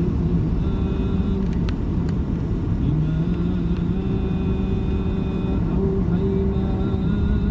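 Steady low engine drone with road rumble, like a car heard while driving.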